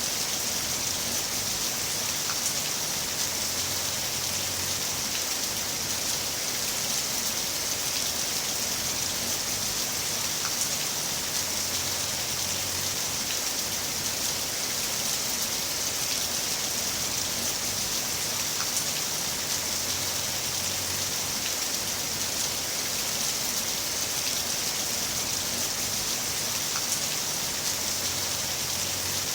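Heavy rain falling steadily: an even, constant hiss of raindrops.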